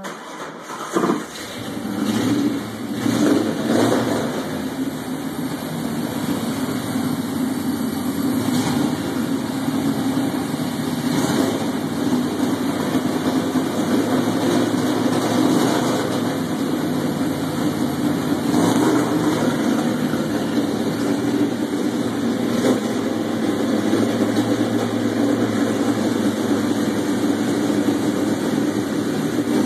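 A newly installed engine starting for the first time: it fires about a second in, picks up unevenly for a few seconds, then settles into a steady idle.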